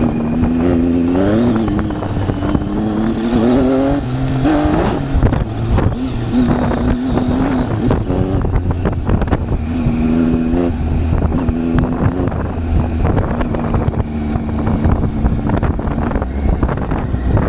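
Triumph Tiger 800's three-cylinder engine under way, revving up twice in the first five seconds and then running at steadier revs, with wind buffeting the microphone.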